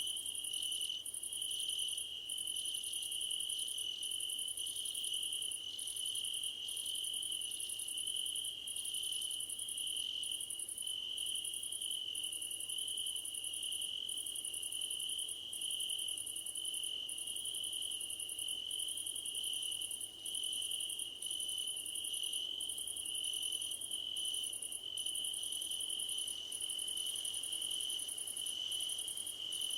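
Chorus of field crickets in grass: one steady, unbroken high trill, over it a still higher-pitched chirping that breaks off about once a second.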